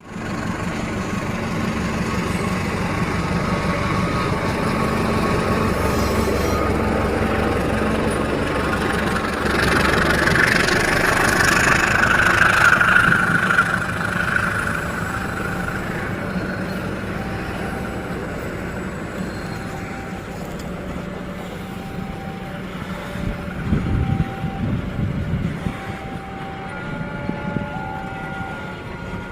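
Diesel-hauled passenger train passing a level crossing. The locomotive's engine hum builds over the first ten seconds, and the passing is loudest between about ten and fourteen seconds in, then eases off as the carriages roll by. Short tones repeat through the second half.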